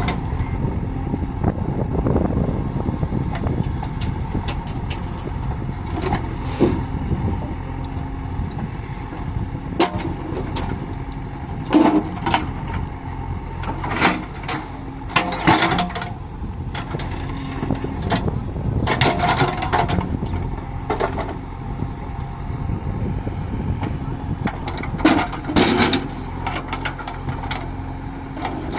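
JCB backhoe loader's diesel engine running steadily, with loud clattering crashes several times as stone is dropped from the bucket into a tractor's tipper trailer.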